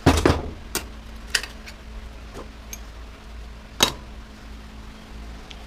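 Scattered sharp clicks and knocks of hand tools and metal parts being handled while taking apart a washer/dryer, with the loudest knock a little before four seconds, over a steady low hum.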